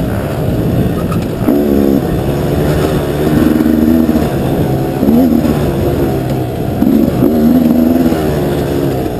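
KTM dual-sport motorcycle engine under way, its pitch rising and falling again and again as the throttle is opened and closed, heard close from on the bike.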